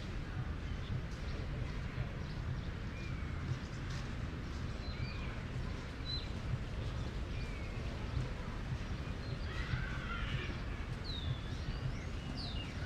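Birds chirping and calling in short, scattered gliding notes, busier about ten seconds in, over a steady low outdoor rumble.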